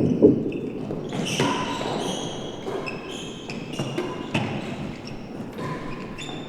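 A real tennis rally in an indoor court: racquet strikes and the ball knocking off the walls and floor. Short high squeaks come between the hits.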